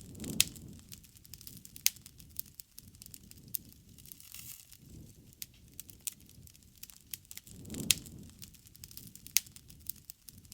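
Wood fire burning, crackling and popping at irregular moments over a soft low rumble of the flames, with a few sharp loud pops.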